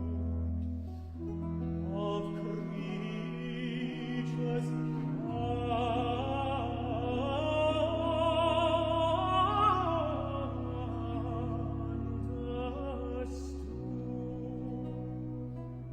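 Baroque aria: a countertenor sings a long, ornate melismatic run over sustained continuo bass notes. The vocal line climbs to its high point about ten seconds in, then falls back.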